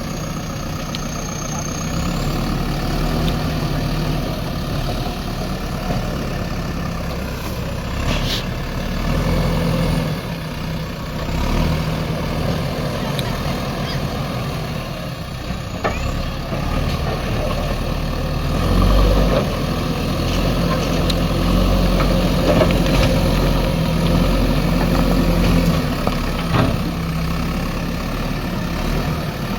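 Heavy diesel machinery engine running steadily, its level rising and falling as the machine works, with a few sharp knocks about a third of the way in, around the middle, and near the end.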